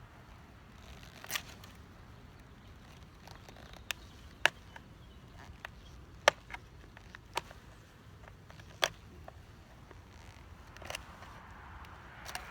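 Scattered sharp clicks and taps, about seven in all, from handling the queen cage against a wooden brood frame.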